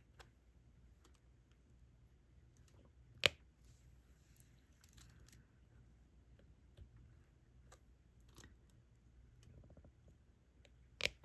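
Scattered small clicks and taps of a diamond-painting pen setting resin drills onto the sticky canvas, with two sharper, louder clicks, one about three seconds in and one near the end. A faint steady hum lies underneath.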